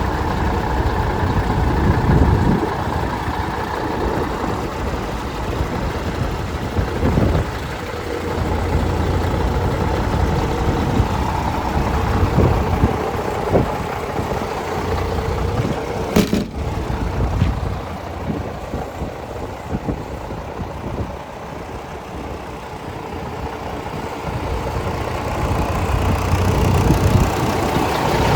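Diesel engine of a MAN TGS 32.364 concrete mixer truck running at idle, its loudness slowly swelling and easing. A single sharp click about sixteen seconds in.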